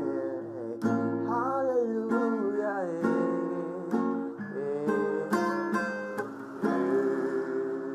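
Gospel song sung in chest voice over strummed acoustic guitar chords, a new strum about every second, with the voice gliding between notes.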